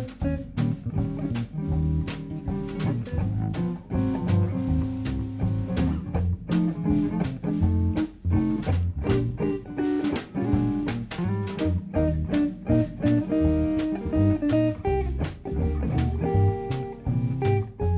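Band music: plucked guitar playing over a bass line and drums keeping a steady beat.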